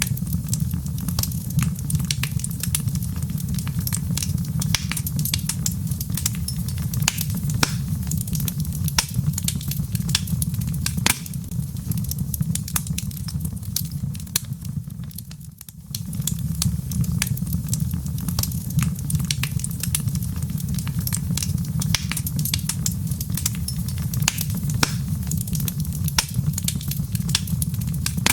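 Log fire in a fireplace crackling, with frequent sharp pops and snaps over a steady low rumble. About halfway through, the rumble sags briefly and then comes back abruptly.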